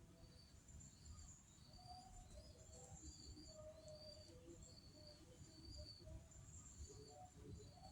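Small bird chirping faintly, short high calls repeated about twice a second, over a low rumble of background noise.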